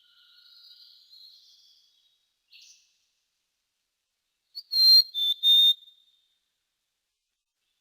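Common quail calling: faint high chirps in the first two seconds, then a loud three-note call about five seconds in.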